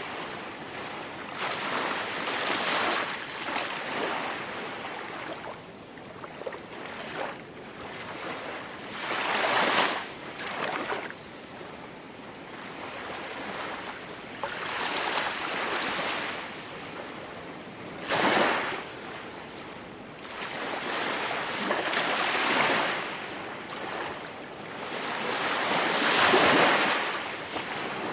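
Ocean waves breaking and washing up a beach: a hissing surge every few seconds, each swelling and then falling away, with a few sharper breaks standing out, the loudest near the end.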